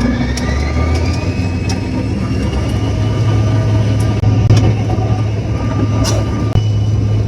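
Airliner jet engines spooling up, heard inside the cabin: a whine rises over the first second or so and then holds steady over a low rumble that grows louder about three seconds in.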